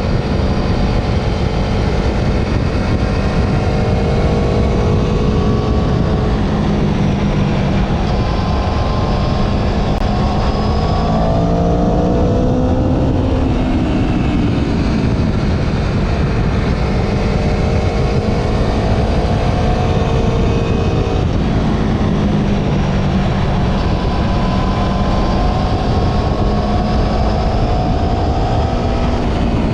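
Motorcycle engine running under way, its pitch rising and falling several times with throttle and gear changes, under heavy wind noise on the microphone.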